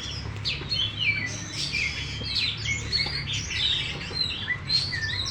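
Oriental magpie-robin (kacer) singing a continuous, varied run of quick whistles, warbles and chirps, over a low steady hum.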